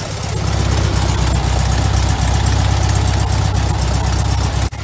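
VW Beetle's air-cooled flat-four engine idling steadily just after a cold start. The engine has not had a tune in about 15 years.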